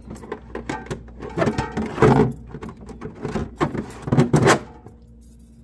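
Irregular knocks, clatter and rustling of plastic milk jugs and cardboard packing being handled and set onto a refrigerator shelf. The handling stops near the end, leaving only a low steady hum.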